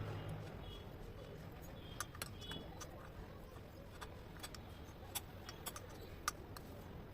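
Scattered light clicks and ticks of metal engine parts and tools being handled, over a low steady hum.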